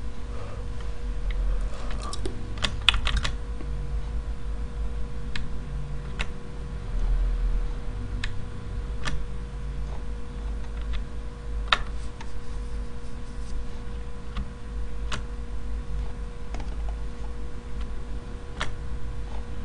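Computer keyboard keystrokes: scattered single key presses every second or two, with a quick run of several keys about three seconds in, over a steady electrical hum.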